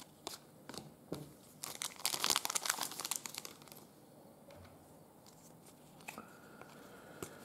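Crinkling and rustling of plastic packaging as trading cards are handled, loudest for a couple of seconds in the middle, with a few light clicks and taps around it.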